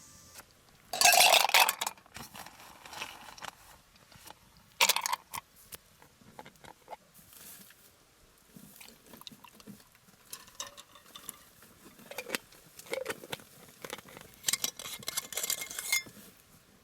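Cookware and utensils clattering and clinking in irregular knocks and scrapes, loudest about a second in, again near five seconds, and in a quick run near the end.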